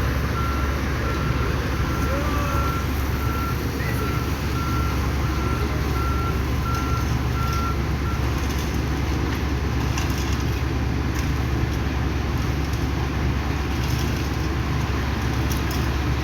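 Heavy diesel machinery running steadily with a reversing alarm beeping about one and a half times a second. The beeping stops about eight seconds in while the engine rumble carries on.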